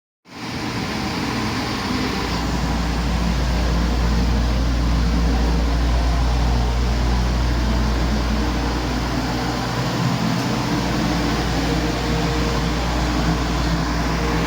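International MaxxForce 13 inline-six diesel engine running steadily at a constant speed, with a deep, even drone.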